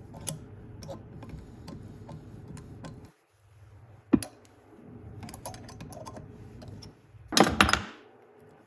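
Hand tap being turned in the aluminum puller holes of a Predator 212 flywheel: scattered small clicks and ticks as it cuts the threads. A sharp knock comes about four seconds in, and a brief loud noisy burst near the end.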